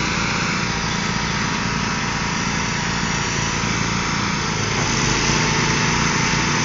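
The small engines of a Craftsman and a Troy-Bilt riding lawn mower running together under load as they pull against each other in a tug-of-war. The sound is steady and gets a little louder about five seconds in.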